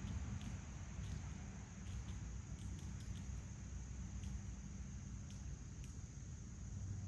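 Backyard ambience: a steady high-pitched insect drone over a low rumble, with scattered faint ticks.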